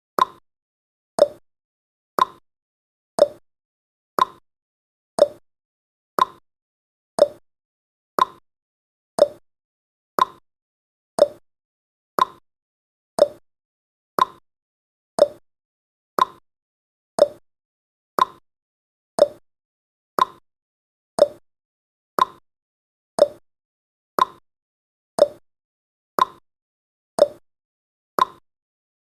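Countdown timer's ticking sound effect: one short, sharp tick every second, at a steady pace.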